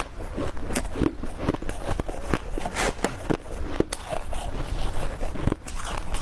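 Ice being bitten and chewed close to the microphone: a dense, irregular run of crisp crunches and crackles, several a second.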